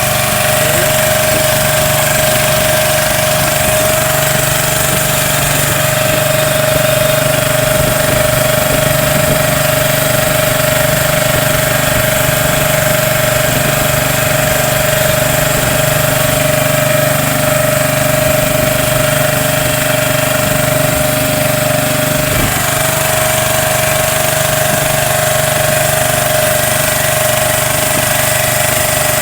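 Small boat engine running steadily at a constant pitch, with no change in speed.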